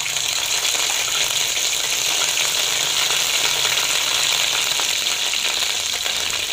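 Ginger paste frying in hot ghee in a steel karahi, with a steady sizzle.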